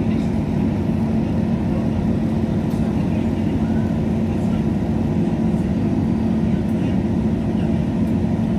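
Passenger train's running noise heard from inside the carriage: a steady low drone with a constant hum.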